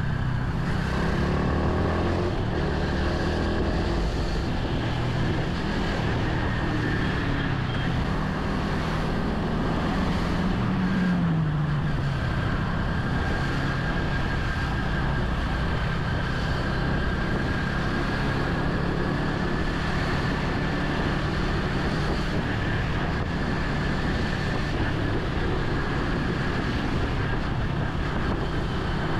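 Steady engine and road noise of a vehicle driving in traffic, with a faint high whine held through much of it. The engine note drops about eleven seconds in as it slows.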